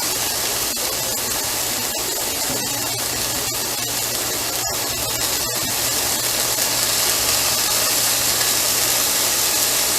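Chopped onions and garlic sizzling in oil in a hot frying pan, a steady hiss that grows a little louder in the second half.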